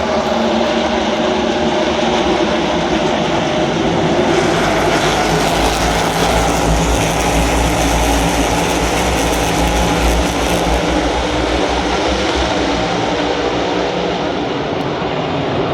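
NASCAR Cup V8 stock cars running at racing speed, swelling louder as cars pass close by from about four seconds in, then easing off again.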